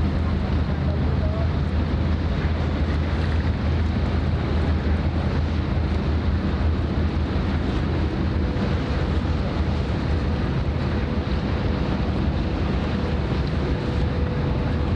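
Steady low drone of ship engines under wind buffeting the microphone, with water washing; a faint steady hum joins about halfway through.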